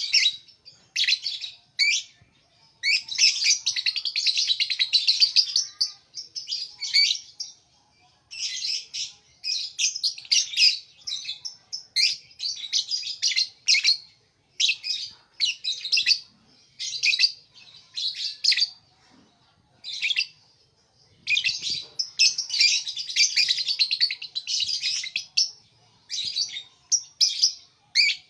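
Lovebird chattering: rapid, high-pitched twittering in bursts from under a second to a few seconds long, broken by short pauses.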